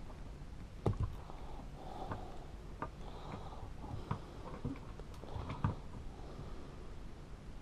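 Wind rumbling on the microphone, with scattered sharp clicks and knocks from hands and tools working on a lithium battery pack's cables, the loudest about a second in and again near the middle.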